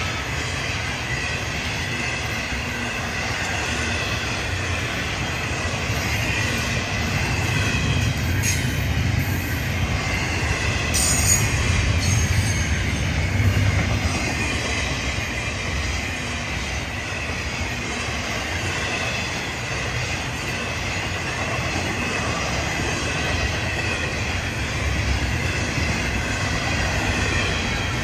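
Florida East Coast Railway intermodal freight cars rolling past: a steady low rumble of steel wheels on rail with a continuous, wavering high-pitched wheel squeal. A couple of sharp clicks come about eight and eleven seconds in.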